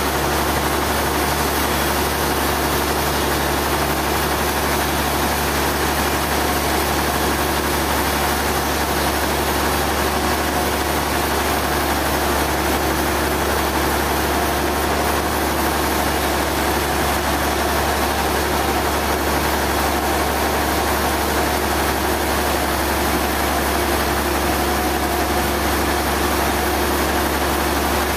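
Sawmill machinery running steadily: a constant engine-like drone with a wide noise, unchanging throughout.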